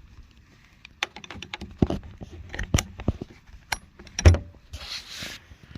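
Metal clinking and jangling, a leash clip and dog tags as a leash is hooked onto a dog, in a quick run of sharp clicks. A heavy thump about four seconds in is the loudest sound, followed by a brief rushing noise.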